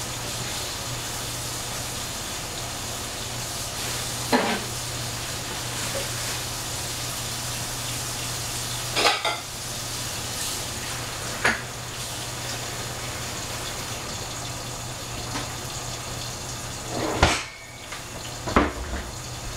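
Steady sizzling of food frying in a pot on the stove, with a handful of short knocks and clinks of cookware, the loudest about 17 seconds in.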